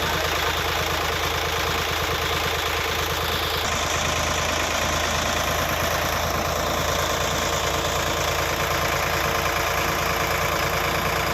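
Sonalika RX 50 tractor's diesel engine running steadily, its tone shifting slightly about four seconds in.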